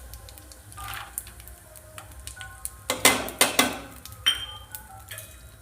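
Metal spatula scraping and clinking against a kadai while stirring, with scattered clicks and a dense run of scrapes about three seconds in.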